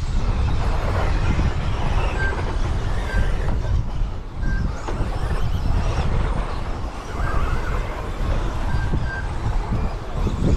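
Wind buffeting the microphone, a steady low rumbling over the noise of the RC race track, with several short high beeps at irregular intervals.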